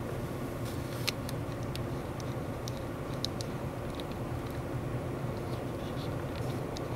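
Strong, steady south wind of a ground blizzard, with scattered sharp ticks of blown snow striking near the microphone.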